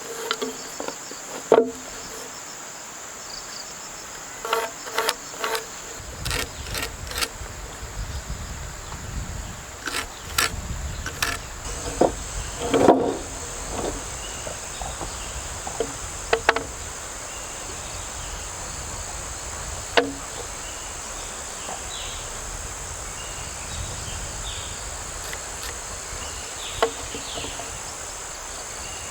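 Steady high-pitched insect chorus, with irregular sharp knocks and clacks over it. The knocks cluster in the first half, the loudest about 13 seconds in, and a few fall later.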